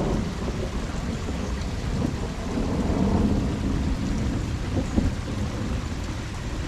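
Steady rain falling, with a low rumble of thunder swelling about halfway through and a single sharp tap about five seconds in.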